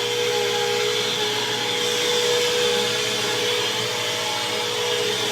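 BISSELL CleanView Helix bagless vacuum cleaner running steadily at full speed: a constant high motor whine over the rush of air.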